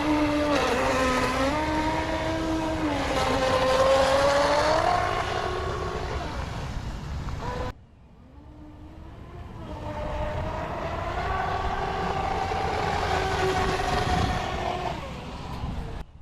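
Electric RC speedboat's brushless motor whining as it runs on the water, its pitch rising and falling with the throttle, over a low rush of water and wind. The sound cuts off suddenly about eight seconds in and builds back up a couple of seconds later.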